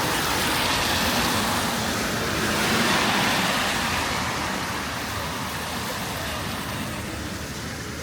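Road traffic passing on a wet road: a steady hiss of tyres that swells as a vehicle goes by about three seconds in, then fades.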